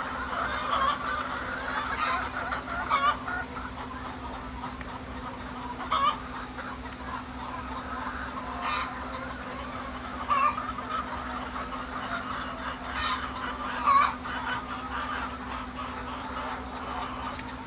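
A flock of laying hens clucking and calling continuously, with louder single calls standing out every few seconds over a steady low hum.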